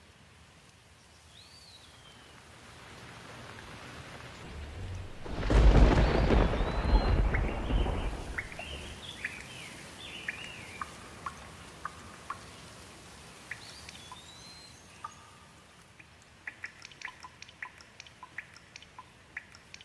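A thunderclap rolls in over rain: the rumble swells for a few seconds, peaks loud and deep about six seconds in, then dies away. Afterwards, single raindrops and drips click sharply, more of them near the end.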